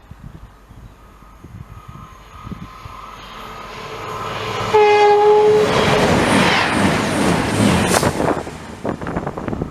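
A train approaching and passing close by at a station, sounding its horn once for about a second as the noise swells. The loud rush of the passing train follows, with rapid clicks of wheels over rail joints near the end.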